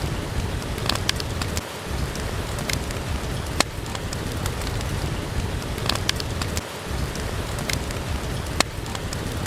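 Steady rain mixed with a fireplace fire crackling, with a few sharp pops scattered through it.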